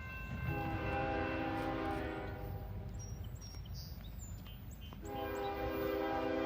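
Locomotive air horn sounding two long blasts, each a chord of several notes lasting about two seconds, with a pause of about two and a half seconds between them, over a steady low rumble from the train.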